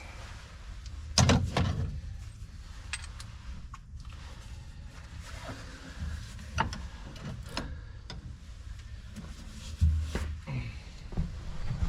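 Scattered knocks and clanks of hand tools and parts being handled during a tractor transmission teardown, the loudest about a second in, over a steady low hum.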